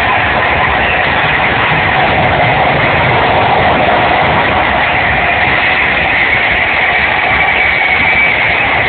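A loud, steady rumble of arena noise at a rock concert's opening: crowd roar mixed with a low, train-like rumble from the PA, captured muffled and distorted by a handheld recording.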